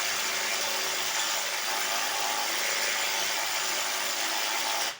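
A power tool running at a steady, loud pitch-less whoosh, then cutting off abruptly at the end.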